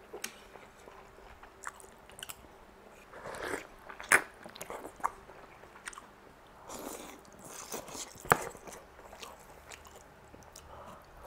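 Close-up chewing and biting of soft steamed rice noodle rolls (cheung fun), with a few sharp clicks of metal chopsticks against the dish, the loudest just after four seconds and just after eight seconds.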